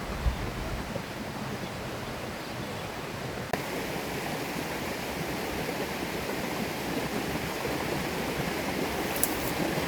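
Steady rushing of a flowing river, turning abruptly brighter and a little louder about three and a half seconds in.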